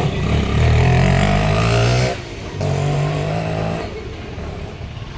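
A motor vehicle's engine running loudly close by. It cuts out abruptly about two seconds in and comes back half a second later at a slightly higher pitch for about a second, as in a gear change.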